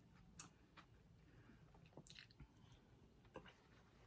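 Faint chewing of food close to the microphone, with a few soft scattered clicks, the clearest about two seconds in.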